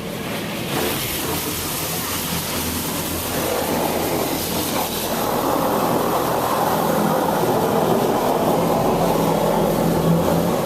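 Touch-free automatic car wash spraying clear coat wax onto the car, heard from inside the cabin: a steady hiss of spray over the machine's low hum, growing louder a few seconds in as the spray comes closer.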